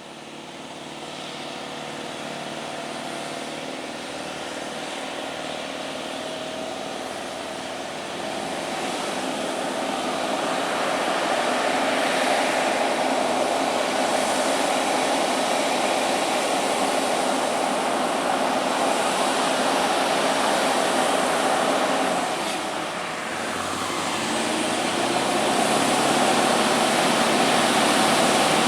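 Scania heavy trucks' diesel engines running with road noise, growing louder over the first dozen seconds as they approach. The sound eases briefly about three-quarters of the way through, then builds again.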